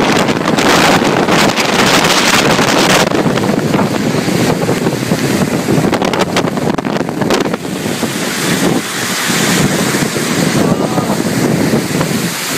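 Strong wind buffeting an iPhone's microphone: a loud, continuous rough rush with irregular crackles as the gusts hit.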